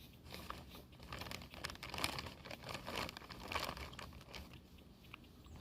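Irregular crinkling and rustling, as of something like plastic or paper being handled, loudest about two seconds and three and a half seconds in.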